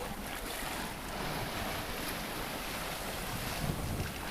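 Steady wash of the sea and wind noise aboard a sailboat under way offshore, with no distinct events.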